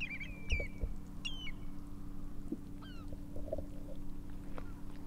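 Birds calling: several short, high calls in the first three seconds, some falling in pitch, over a steady low hum.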